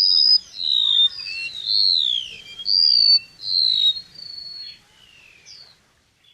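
Flowerpecker (chim sâu) song: a fast, continuous run of high whistled notes and sliding, mostly falling phrases. It fades after about four seconds and stops near the end.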